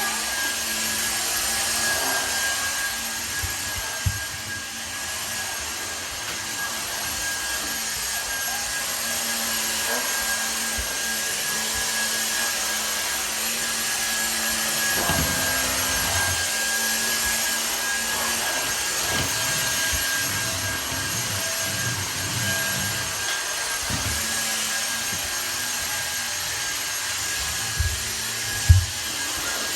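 Vacuum cleaner running steadily with a high motor whine. A few short knocks come through, the loudest twice near the end.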